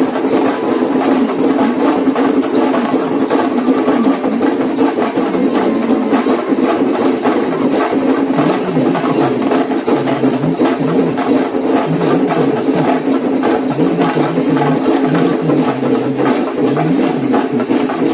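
Kerala melam percussion ensemble of chenda drums playing a fast, dense, steady beat, with a low melodic line joining about eight seconds in.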